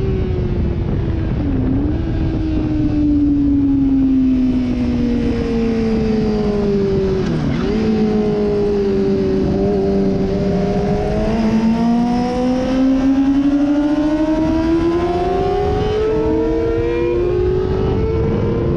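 Sportbike engine heard onboard at speed on a race track: the engine note falls as the bike slows, with two brief breaks, then climbs steadily as it accelerates hard, dropping briefly near the end at a gear change. Heavy wind rush runs underneath.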